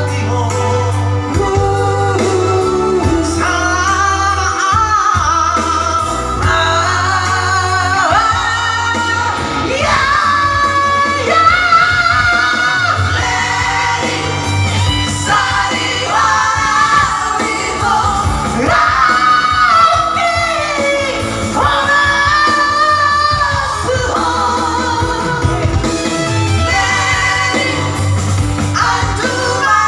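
Singing practice: a voice sings a song over loud instrumental accompaniment with a steady bass line.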